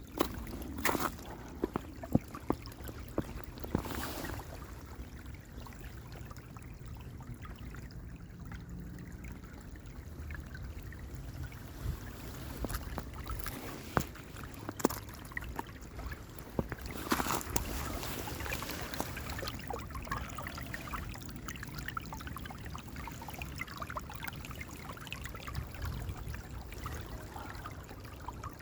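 Small, low-flowing creek trickling steadily, with scattered sharp footsteps on snow and ice.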